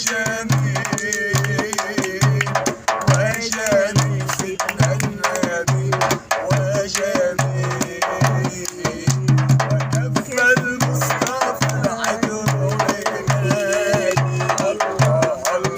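A voice singing a melismatic Arabic religious praise song (madih) over a steady hand-drum beat.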